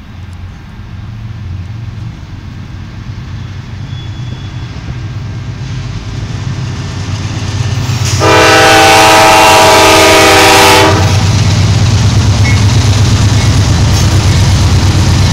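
Diesel freight locomotive approaching slowly, its engine rumble growing steadily louder; about eight seconds in its air horn sounds one long multi-note blast lasting about two and a half seconds, then the engine and train continue loudly as the locomotive passes close by.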